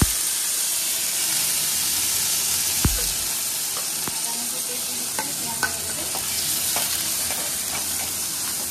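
Sliced onions, green chillies and ginger-garlic paste sizzling hard in hot oil in a wok: a loud, steady frying hiss. Ladle clinks and scrapes against the pan sound as it is stirred, with a knock about three seconds in.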